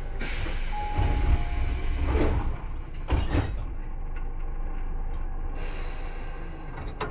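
Inside a Tobu 9000 series commuter train: a hiss of air with several heavy thuds over the car's low rumble, the hiss stopping about three and a half seconds in, leaving a steady low hum.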